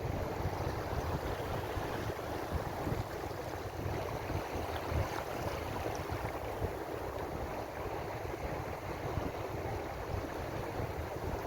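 Ocean waves as a steady, continuous rush of water with a deep rumble underneath, holding an even level without distinct breaking crashes.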